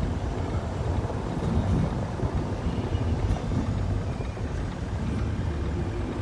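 Steady low rumble of a car driving along a road, with wind noise on the microphone.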